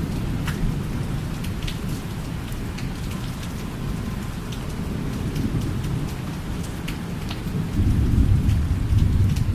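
Steady rain with scattered individual drop hits, over a low thunder rumble that swells louder near the end.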